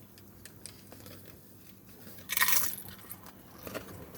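A loud crunch of a tortilla chip being bitten, a little over two seconds in, among faint chewing clicks.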